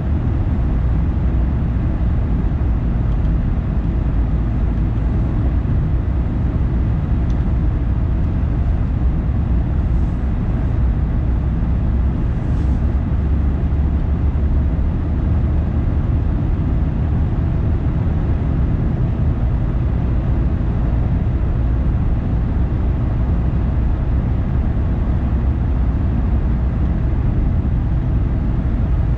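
Steady low rumble of a car being driven, its tyre and engine noise even and unchanging throughout, with a few faint light ticks.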